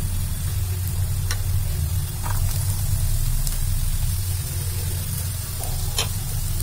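Potato pieces sizzling in hot oil in a frying pan, stirred with a wooden spatula, with a few light clicks. A steady low hum runs underneath.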